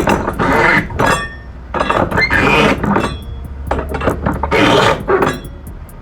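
Irregular knocks, clicks and scrapes of flatbed cargo securement being tightened down on a load of spools, with a steady low hum partway through.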